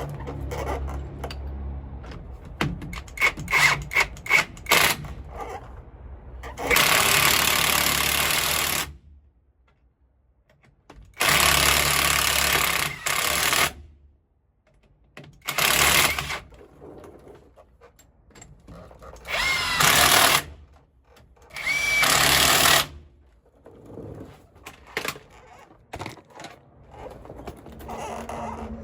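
A power tool is run in repeated bursts while a drive shaft and its center bearing are bolted back up. First come short rattling bursts, then five longer runs of one to three seconds each, two of them with a brief rising whine.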